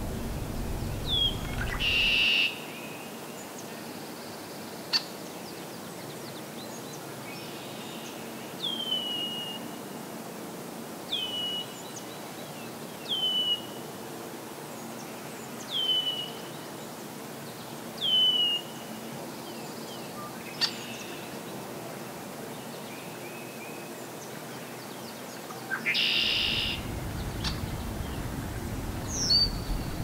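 A songbird repeating a single sharp call that slides down in pitch, one call every two to three seconds. Two short, louder harsh sounds come about two seconds in and near the end.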